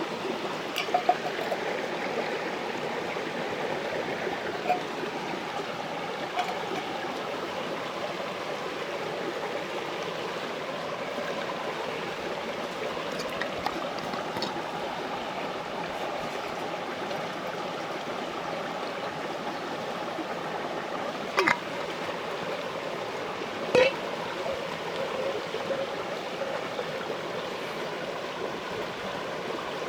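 Mountain stream rushing steadily, with a few short sharp clicks, two louder ones in the last third.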